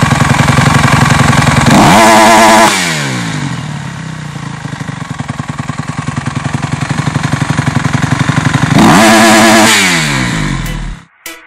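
Single-cylinder four-stroke Honda CRF motocross engine with a LeoVince aftermarket exhaust, revved twice. It peaks about two seconds in and again about nine seconds in. Between the revs it drops back to low revs, where the separate firing pulses can be heard, and near the end it falls away and cuts off.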